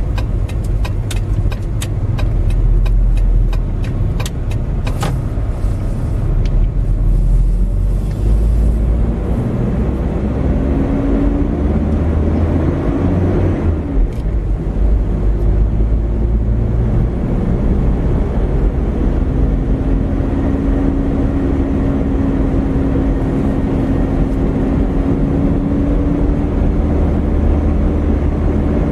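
A car being driven on a town street, heard from inside: a steady engine and road rumble. There is a run of sharp clicks in the first few seconds, and a steady engine hum from the middle on.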